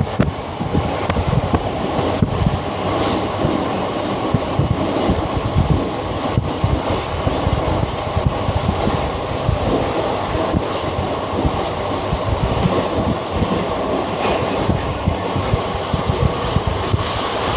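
A train running along the track: a steady heavy rumble and rattle of the wheels and carriages, with faint clicks from the rail joints.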